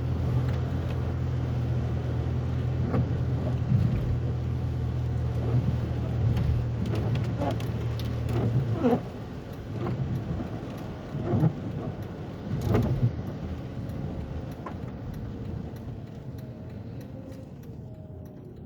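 Car road noise heard from inside the cabin: a steady low drone of tyres and engine that eases off after about nine seconds, with a few sharp knocks and thumps around the middle as the car goes over the uneven road.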